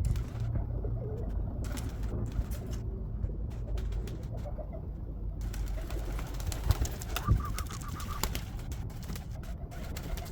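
Pigeons cooing, with scattered light clicks. Two sharp thumps a little past the middle are the loudest moments.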